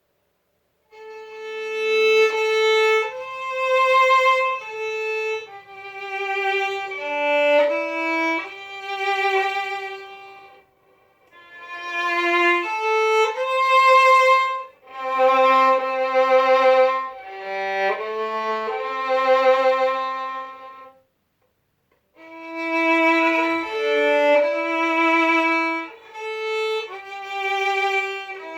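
Solo violin playing a slow melody, one note at a time with vibrato on the held notes, in phrases broken by two short pauses.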